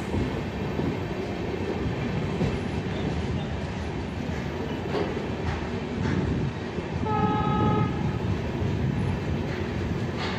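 Moving passenger train heard from a coach: a steady rumble of wheels on rails with scattered clacks. A train horn sounds once for about a second, about seven seconds in.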